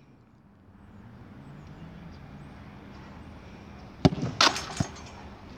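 A football struck hard in a shot-speed test: a sharp kick about four seconds in, followed at once by a short, louder clatter and a smaller knock, over faint outdoor background noise.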